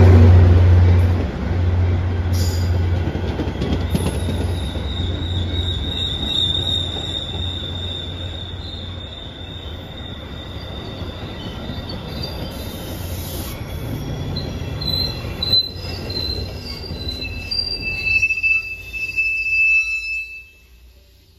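Metra diesel commuter train arriving, with a deep engine hum that fades over the first few seconds, then high-pitched wheel and brake squeal that comes back stronger in several tones near the end. The sound drops away sharply about a second before the end.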